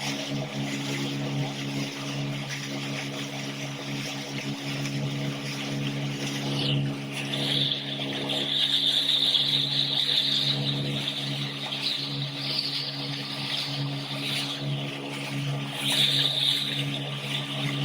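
Speedboat engine running steadily under way, with the hiss of water rushing past the hull. About seven seconds in the hiss dips, then swells louder for several seconds, and swells again near the end.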